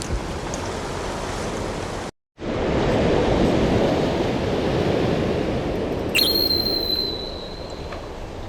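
Steady noise of rough surf and wind, cut off by a brief dropout about two seconds in and then louder. About six seconds in, a sharp click is followed by a thin high tone held for about a second.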